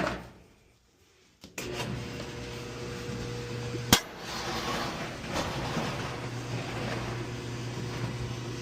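Maytag clothes dryer starting up and running: a steady motor-and-drum hum that starts suddenly a second and a half in, with one sharp click about four seconds in.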